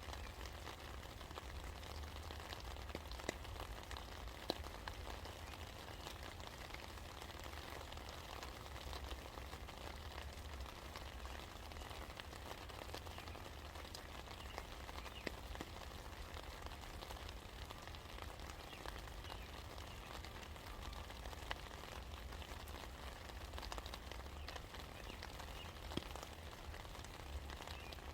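Steady rain falling, an even patter with individual drops ticking sharply here and there, a few of them louder, over a steady low rumble.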